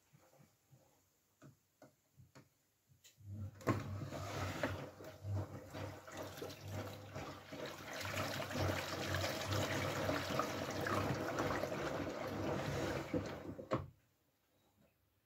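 Miele W433S front-loading washing machine taking in water: a steady rush of inflowing water with a low hum starts a few seconds in and stops abruptly about ten seconds later. A few faint knocks come before it.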